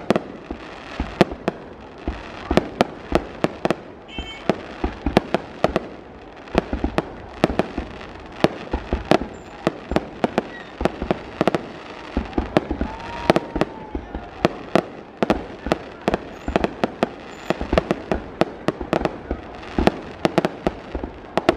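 Aerial fireworks display: a dense, unbroken barrage of bangs and pops, several a second, over a continuous background crackle.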